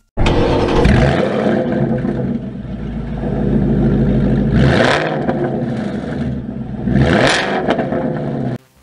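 Shelby Super Snake's supercharged 5.0-liter Coyote V8 running through its Borla exhaust, heard at the tailpipes. It holds a steady run and is revved twice in quick blips, about five seconds in and again near seven seconds.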